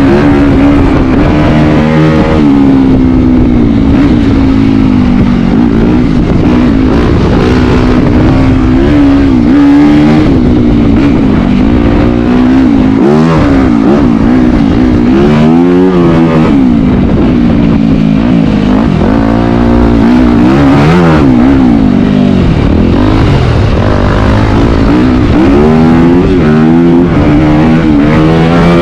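Yamaha WR250F's single-cylinder four-stroke engine being ridden hard, the revs rising and falling again and again as the throttle is opened and closed.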